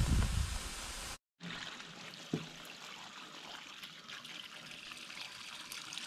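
Water pouring and trickling down a septic clean-out pipe to wash root killer into the line, heard as a steady hiss. The pour breaks off at a cut about a second in, then goes on quieter, with a single knock a second later.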